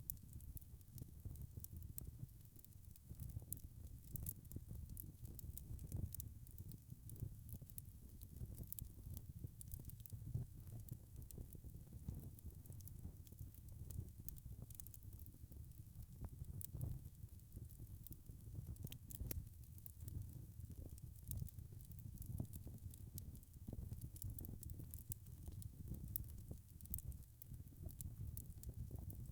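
Wood fire crackling: irregular sharp pops and crackles of burning logs over a faint low rumble of the flames.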